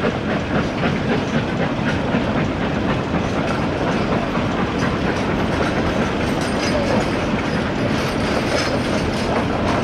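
Narrow-gauge steam railway passenger coaches rolling past close by, a steady rumble with wheels clacking over the rail joints.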